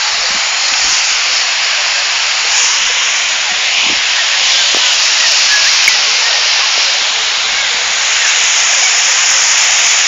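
A huge flock of swallows in trees, calling all at once: a loud, steady wall of high chirping.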